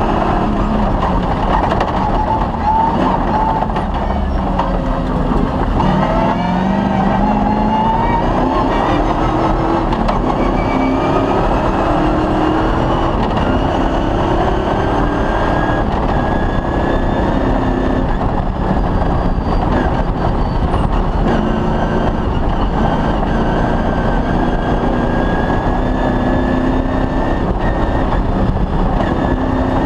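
Off-road rally car engine running hard under load, its pitch rising and falling with the driving. The pitch drops around six seconds in, climbs again, then rises slowly through the second half.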